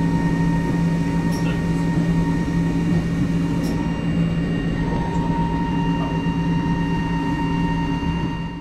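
Jungfraubahn electric rack-railway train running, heard from inside the carriage: a steady whine in several held pitches over a low rumble, with a few faint clicks.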